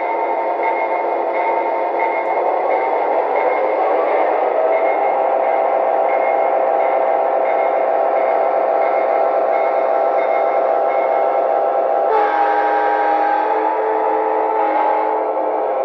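Lionel O gauge diesel model locomotive running with its electronic diesel engine sounds, a steady multi-toned drone that rises in pitch a few seconds in and changes abruptly near the end.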